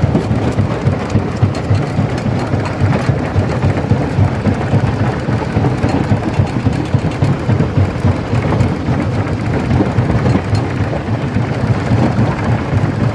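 Stone crusher breaking rock: a loud, continuous rumble with dense cracking and clatter of stones being crushed.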